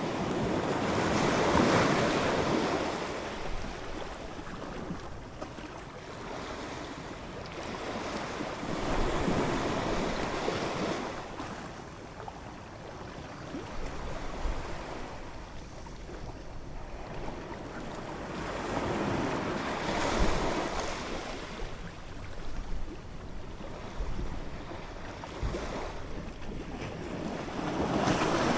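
Ocean waves breaking and washing in, the surf swelling and fading in slow surges about every five to eight seconds.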